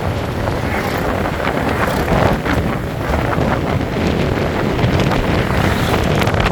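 Wind rushing and buffeting over the microphone of a moving motorcycle, with the bike's running and road noise underneath.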